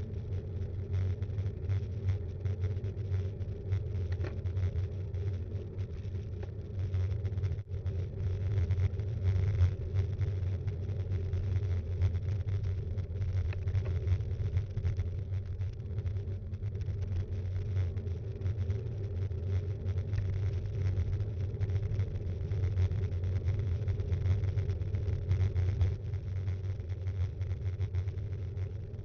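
Steady low rumble of wind and road vibration picked up by an action camera mounted on a moving mountain bike, with constant small rattles and knocks from the bike over the surface.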